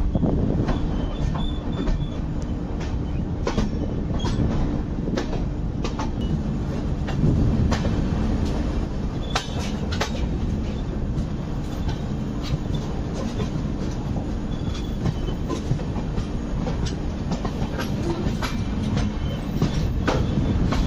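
Red LHB passenger coaches of an Indian express train running at speed, heard from an open coach door: a steady rumble of wheels on rail with a low hum and irregular sharp clicks and clanks.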